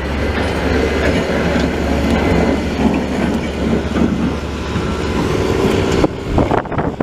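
Heavy diesel snow-clearing vehicle passing close, its engine rumbling under a dense clatter that swells and then cuts off abruptly about six seconds in.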